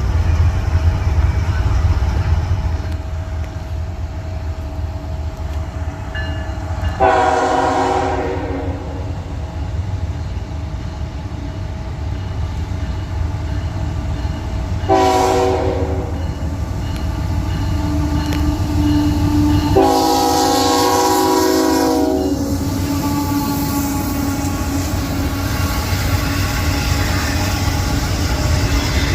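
Nathan K5HL air horn on a Union Pacific GE ET44AH freight locomotive sounding three blasts: short ones about seven and fifteen seconds in, and a longer one of about two seconds near twenty seconds. The steady rumble of the passing train runs underneath, followed by the rolling noise of the freight cars going by.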